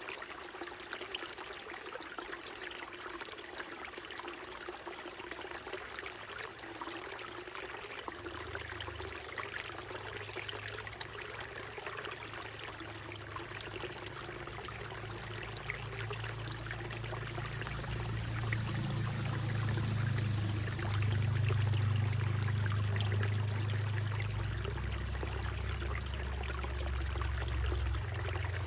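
Small mountain stream trickling and splashing over rocks, a steady rushing of water. A low rumble comes in about a third of the way through and grows louder in the second half.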